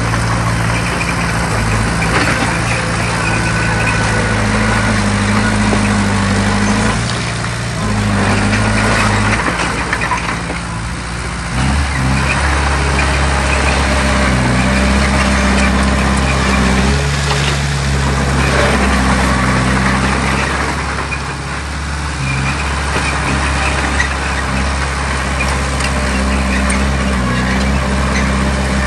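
Heavy diesel engine of earthmoving machinery running hard under load. Its pitch shifts several times as the revs change, most clearly about seven, nine and twelve seconds in.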